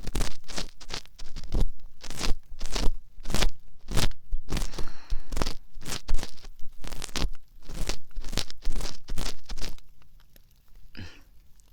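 Earpick scraping and scratching inside the ear of a binaural dummy-head microphone, ear-cleaning ASMR: close, crunchy strokes about two or three a second, dying away about ten seconds in.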